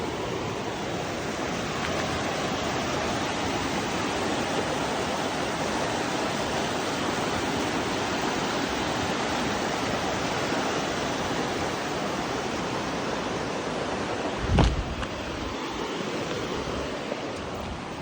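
Steady rushing of flowing water, as from a fast creek. One short, low thump about three-quarters of the way through.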